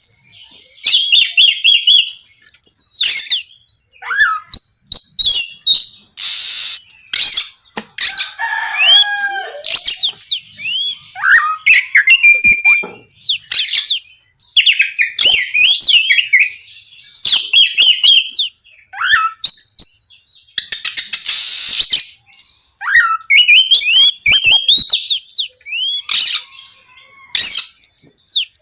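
Oriental magpie-robin (kacer) singing in full, loud song: quick phrases of clear rising and falling whistles and trills, separated by short pauses, with two brief harsh rasping notes along the way.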